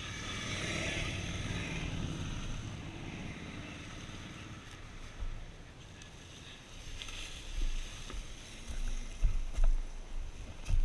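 A vehicle passes on the road, its engine noise swelling and fading over the first few seconds. After that come scattered low thumps and rumbles.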